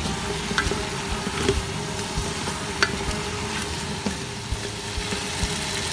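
Cubed potatoes sizzling in hot oil and spice paste in a pan while being stirred, with occasional sharp clicks of the utensil against the pan.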